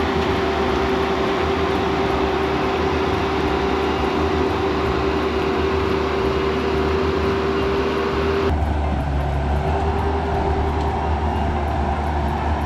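Bobcat skid steer's diesel engine running steadily under load, with a steady whine over a low rumble; the sound changes abruptly about eight seconds in, the whine dropping away.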